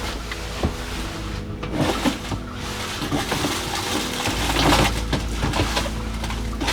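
Irregular small knocks and clatter of objects being handled, over steady background music.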